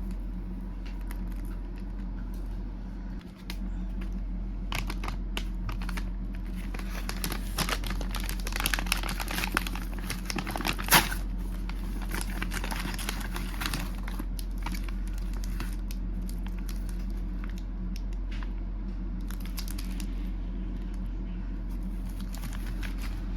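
Snack packaging crinkling and tearing as it is handled and opened, busiest in the middle with one sharp loud crackle about eleven seconds in, over a steady low electrical hum.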